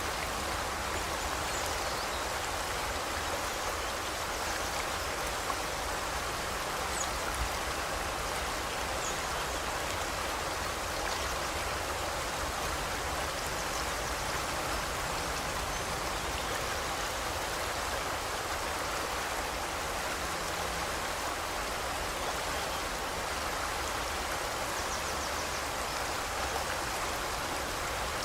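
Steady rushing of a forest river flowing over rocks, an even unbroken wash of water noise. A few faint, brief bird chirps sound high above it now and then.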